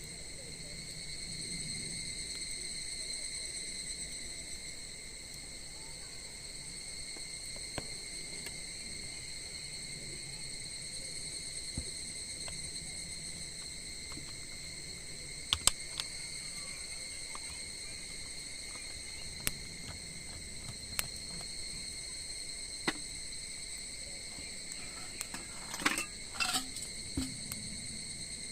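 Crickets chirring in one steady, unbroken high-pitched tone, with scattered sharp clicks and crackles that bunch together near the end.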